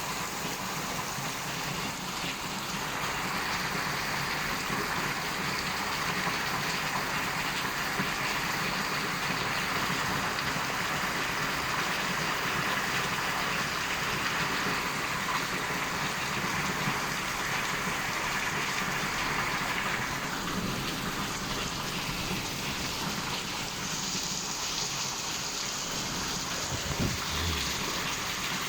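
Heavy rain pouring steadily during a thunderstorm, heaviest for most of the stretch and easing slightly after about twenty seconds. A brief low thump near the end.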